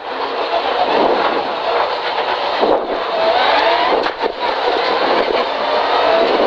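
Rally car engine, heard from inside the cabin, pulling hard under acceleration. It rises in pitch, drops briefly at a gear change about four seconds in, then climbs again in the next gear.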